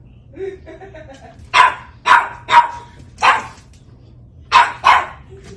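A dog barking: a few soft low sounds, then six loud, sharp barks in irregular clusters.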